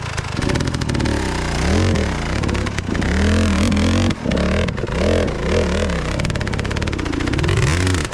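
Enduro dirt bike engine revved in repeated throttle bursts, its pitch rising and falling again and again as the bike works over rocks, with a brief drop about four seconds in.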